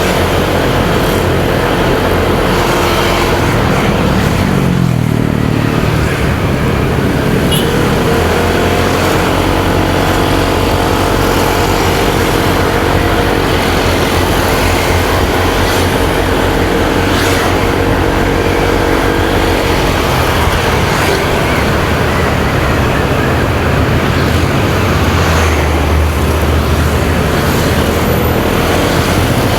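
Motorcycle engine running while riding, heard from the rider's position along with road and traffic noise. The engine note climbs about four seconds in, then settles and changes pitch a few more times.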